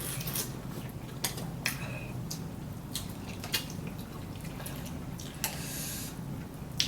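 Quiet eating sounds: scattered light clicks and taps of utensils against a bowl, with soft mouth noises of eating noodles.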